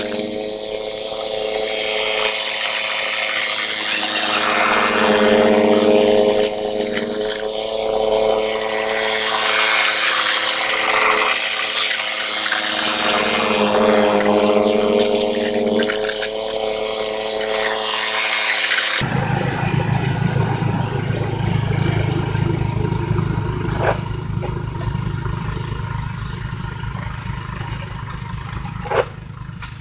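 Ariens snowblower's small engine running steadily under load, with the hiss of snow being thrown. After about 19 seconds it changes abruptly to a deeper, evenly pulsing engine note with two sharp clicks near the end.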